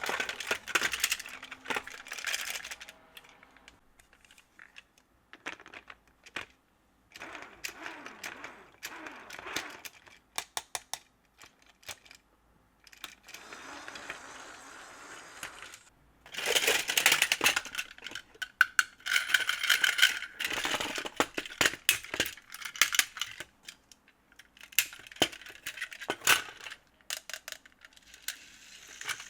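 Hard plastic Plarail toy train and track pieces being handled, in irregular clusters of clicks and rattles, busiest about two-thirds of the way through.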